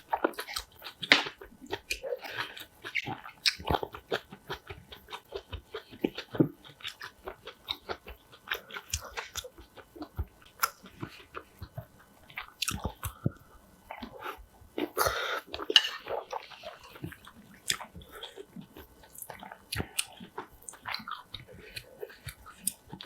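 A person eating close to the microphone, mukbang-style: steady chewing with many short, crisp crunches and wet mouth sounds, as of crunchy kimchi and rice.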